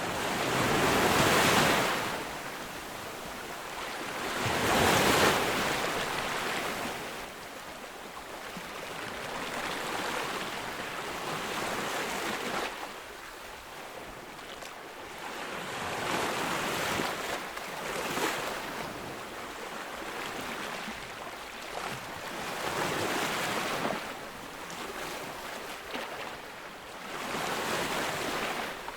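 Ocean waves breaking on a beach: a roar of surf rises and falls in repeated swells, the two biggest breakers in the first six seconds, then smaller ones every few seconds.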